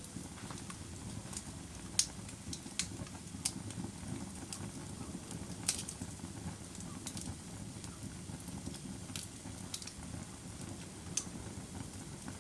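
Wood fire burning in a fireplace: irregular sharp crackles and pops over a steady low rumble of the flames, the loudest pop about two seconds in.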